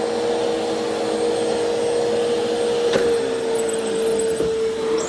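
Vacuum cleaner running steadily, its motor holding one steady tone over the rush of air, with a brief click about three seconds in.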